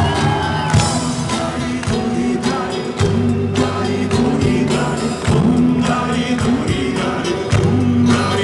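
Rock band playing, with singing over sustained bass notes and a steady drum beat.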